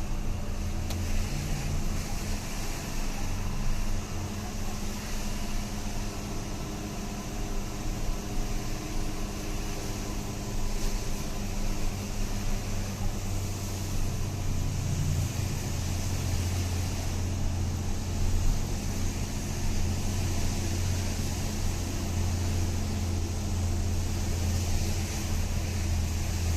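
Truck engine running steadily while driving, a continuous low drone that gets slightly stronger about halfway through.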